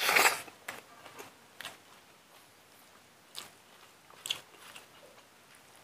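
A man eating pork and rice by hand: a loud bite as the mouthful goes in at the start, then a few sparse crunches and clicks of chewing.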